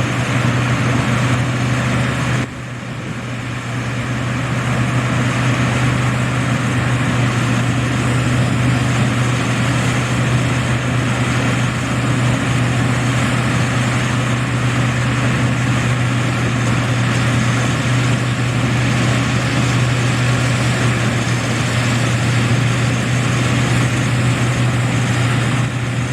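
Combine harvester's engine running steadily with a deep, even hum. The sound drops suddenly about two and a half seconds in and builds back up over the next second.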